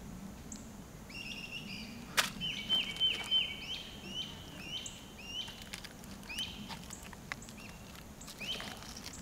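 A songbird singing a long series of short, repeated chirping notes, about two a second, with a few faint clicks and one sharp click about two seconds in.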